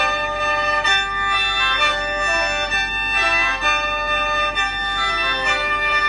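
Khaen, the Lao bamboo free-reed mouth organ, playing a melody in several notes at once over a steady held drone note.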